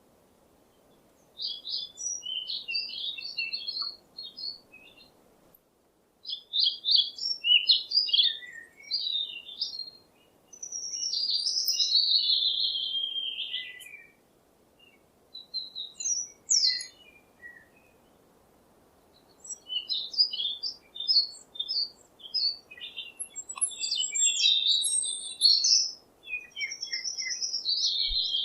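A songbird singing in repeated phrases of quick, high chirps and trills, with short pauses between phrases and one longer phrase that slides down in pitch.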